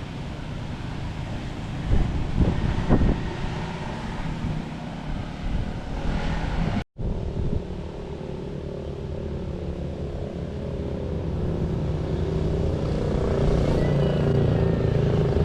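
Honda XR150's single-cylinder engine running on the move, with wind buffeting the microphone. The sound cuts out for a moment about seven seconds in; after that the engine note is steady and slowly grows louder.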